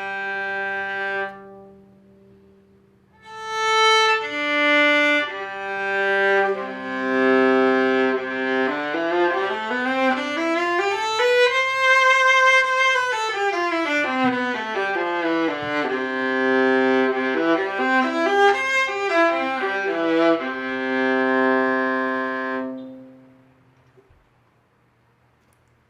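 Viola played with the bow: a held low note, then, after a short pause, a run of notes climbing step by step to a high note and stepping back down, a few quicker notes, and a long held final note that dies away a few seconds before the end.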